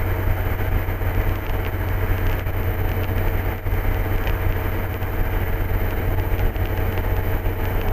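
Steady drone of an MD3 Rider ultralight's engine and propeller in flight, heard inside the cockpit as an even low hum.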